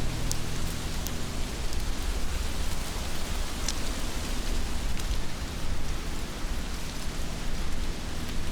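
Heavy rain falling steadily: a dense, even hiss with a few sharp drop hits scattered through it.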